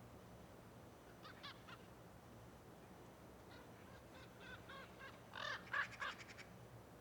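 Bird calling: a short group of calls about a second in, then a longer run of repeated calls, loudest near the end, over faint background noise.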